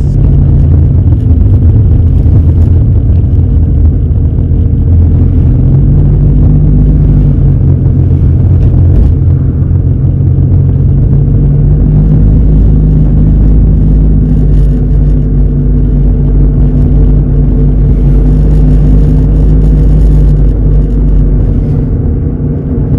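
Honda Accord Cielo being driven, heard from inside the cabin: a steady low engine and road rumble, its engine note dropping about a second in and rising again around five or six seconds in.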